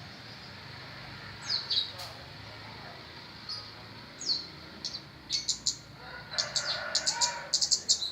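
A kemade bird calling with sharp, high chirps. There are two quick downward-sliding notes in the first half, then fast runs of chirps in the second half.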